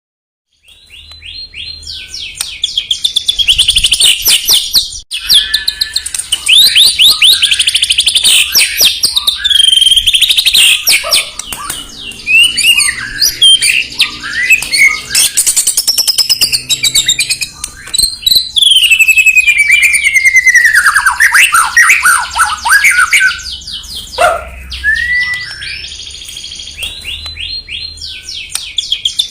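White-rumped shama (murai batu) singing a loud, varied song of rapid trills, sharp repeated notes and sliding whistles. The song starts about half a second in.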